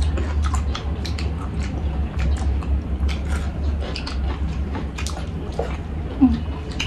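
Close-miked chewing and biting: a person eating chicken, rice and green chillies by hand, with many quick wet mouth clicks and smacks over a steady low hum.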